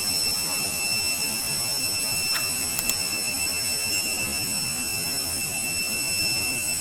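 Airbus A319 cabin noise: a steady high-pitched whine over a low, even rush of air, with a couple of faint clicks a little over two seconds in.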